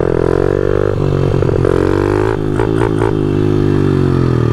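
Honda CRF50 pit bike's small single-cylinder four-stroke engine running under throttle while riding, its pitch rising over the first second or so, holding, then easing off near the end.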